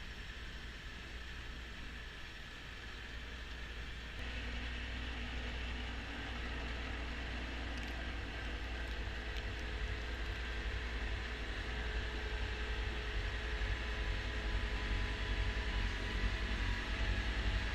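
Kubota B2650 compact tractor's diesel engine running with its front-mounted snowblower working, a steady drone that gets louder about four seconds in and keeps building.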